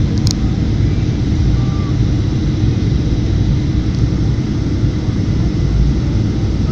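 Steady, loud rumble of an airliner's engines and rushing air heard inside the passenger cabin, with a small click about a third of a second in.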